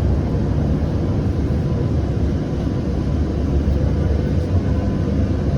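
Siemens S700 light rail vehicle running between stations, heard from inside the car: a steady low rumble of wheels on track with a faint steady whine.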